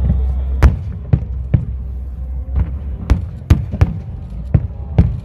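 Aerial fireworks shells bursting overhead: a rapid, irregular series of about nine loud bangs over a steady low rumble.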